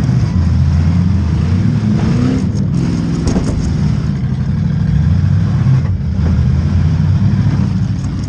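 Demolition derby car's stock V8 engine running hard and revving up and down, heard close from the car's roof, with a few short metal clanks about three seconds in.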